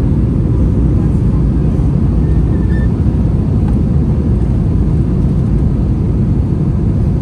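Steady low rumble inside the cabin of an Airbus A321 in flight: airflow and its IAE V2500 turbofan engines heard from a window seat.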